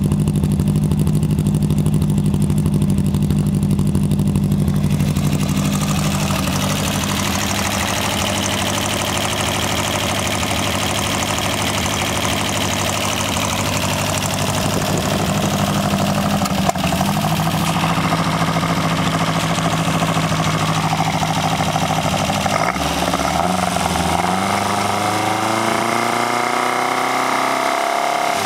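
Birkin Super Seven's 1.7-litre four-cylinder engine on Weber carburettors idling steadily. In the last few seconds it is blipped several times, its pitch rising and falling with each rev.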